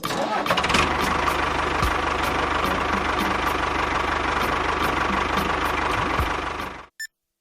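Small motor of a homemade mini tractor running steadily, with a light regular ticking about three times a second; it cuts off abruptly near the end.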